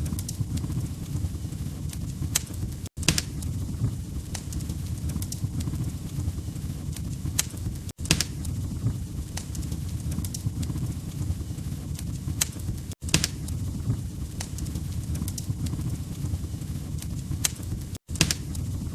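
Wood fire crackling in a fireplace: sharp pops and snaps over a steady low roar. The sound cuts out for a split second about every five seconds, where the short recording loops.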